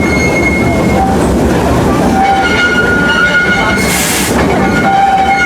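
Park railroad train running on its rails, heard on board, with steady rolling noise and high wheel squeal tones that come and go. A short, sharp hiss comes about four seconds in.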